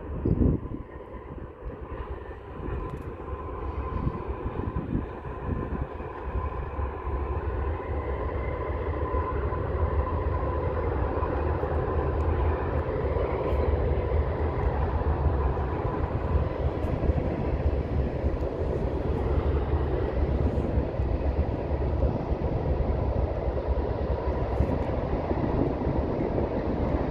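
Train passing close by: a steady low rumble of locomotives and rolling cars that builds over the first ten seconds and then holds steady, with a thump about half a second in.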